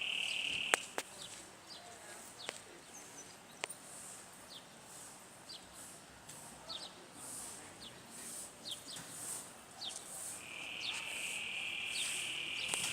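Crickets trilling in one steady high note, which stops about a second in and comes back near the end. In between there are short, repeated high chirps and a few sharp clicks.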